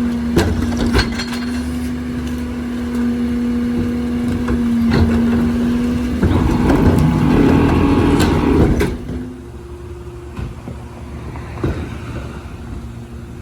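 Leach 2R-III rear-loader recycling truck running its hydraulics, with a steady whine and a few sharp knocks in the first second. The truck gets louder with clatter and crushing noise from about six to nine seconds in, consistent with the packer cycle, then drops suddenly to a quieter idle.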